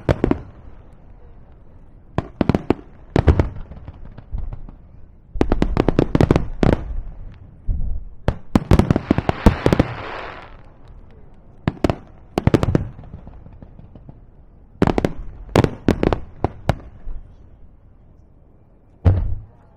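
Fireworks shells bursting overhead in quick clusters of sharp reports, with short lulls between volleys. One volley about nine seconds in is followed by a dense crackling hiss from crackle stars.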